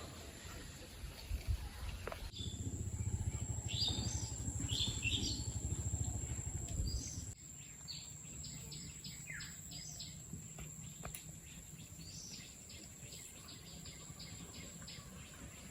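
Small birds chirping, with short high calls and quick runs of chirps, over a thin steady high whine. A low rumble runs from about two to seven seconds in.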